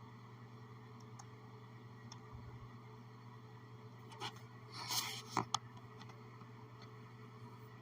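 Steady low room hum, broken about four to five and a half seconds in by a short scraping rustle and a few sharp clicks, like something rubbing against or handling the camera.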